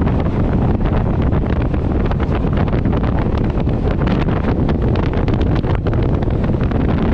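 Electric multiple-unit local train running at speed, heard from outside the coach window: heavy wind buffeting the microphone over the steady rumble of the coach, with a constant rattle of sharp clicks.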